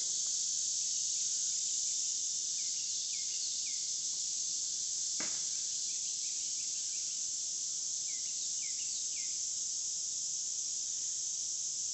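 Steady high-pitched chorus of insects such as crickets. Two groups of three short chirps stand out above it, and one brief sharp click comes about five seconds in.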